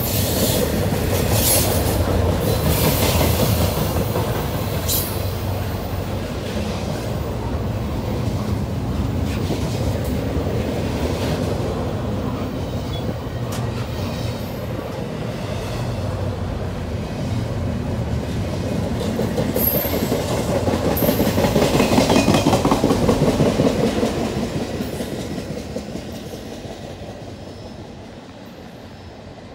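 Double-stack intermodal freight train rolling past close by: a steady rumble of steel wheels on rail with scattered clicks over the rail joints. It is loudest about two-thirds of the way through, then fades near the end.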